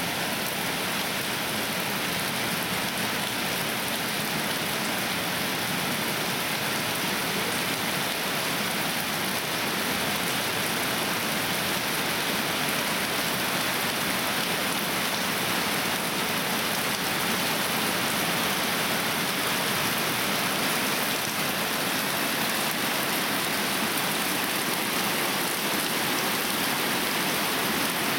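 Heavy rain pouring down steadily, an even, unbroken wash of noise.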